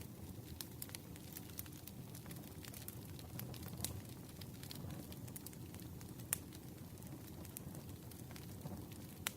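Wood bonfire burning: scattered sharp crackles and pops over a steady low rumble of the flames, with a louder pop about six seconds in and another near the end.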